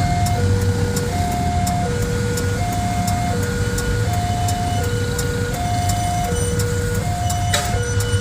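Railway level crossing warning signal sounding an electronic two-tone alarm that alternates steadily between a higher and a lower tone, about one change every half second or so, the sign that a train is approaching and the barrier is down. Beneath it, engines of waiting vehicles idle in a low rumble, and a short hiss comes near the end.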